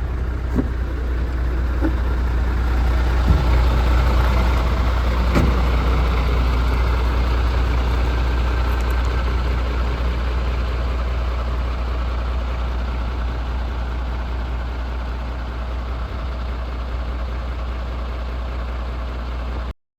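MAN TGX 26.470 truck's 470 bhp Euro 6 diesel idling steadily, swelling slightly in loudness a few seconds in and then easing back down.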